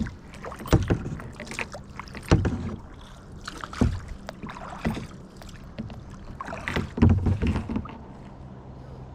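Kayak paddle strokes in the water, a splash roughly every second and a half, then the strokes stop near the end.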